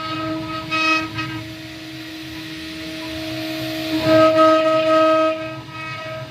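Spindle of a mini stone CNC router whining at a steady high pitch. It gets louder and rougher as the bit cuts into stone, for about the first second and again from about four seconds in.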